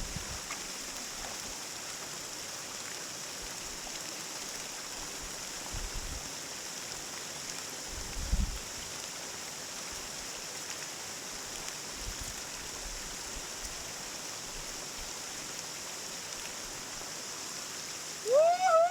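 Steady noise of water flowing at a waterfall, with a couple of low bumps partway through. Near the end a person gives a loud call that rises in pitch and then holds.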